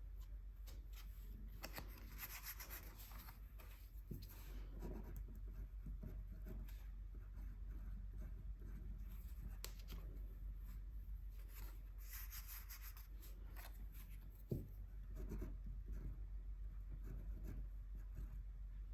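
A paintbrush brushing gouache onto paper in soft scratchy strokes that come and go, with one light knock about three-quarters of the way through.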